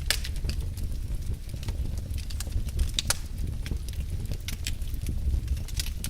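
Wood fire in a fireplace crackling: irregular sharp pops and snaps over a steady low rumble of the flames, with louder pops at the start and about three seconds in.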